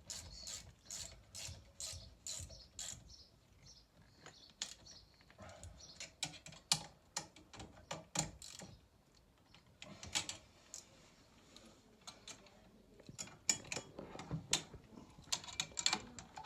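Ratchet spanner clicking in quick runs as bolts on a stairlift motor and gearbox are wound in, with scattered louder metal clicks and knocks later on.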